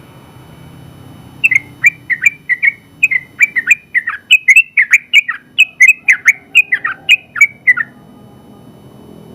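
Yellow-vented bulbul (trucukan) singing a long, rapid run of loud, sharp chirping notes, about three a second. The run starts about a second and a half in and stops shortly before the end.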